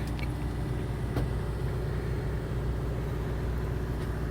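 Fishing boat's engine running steadily with a low, even drone, and a faint click about a second in.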